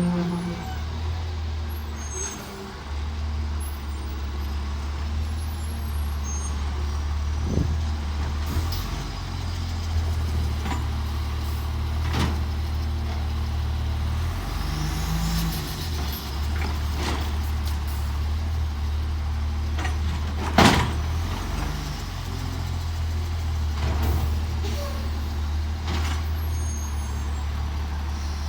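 Autocar ACX McNeilus Autoreach garbage truck's engine running, its speed stepping up and down several times, with scattered clanks and knocks; one sharp bang about two-thirds of the way through is the loudest.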